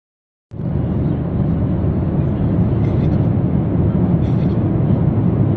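Airliner cabin noise: a steady, loud, low rumble of engines and airflow, starting about half a second in.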